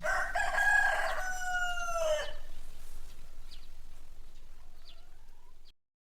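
Rooster crowing once: a single long call of about two seconds, dropping slightly in pitch at the end, followed by a few faint short calls. The recording cuts off suddenly near the end.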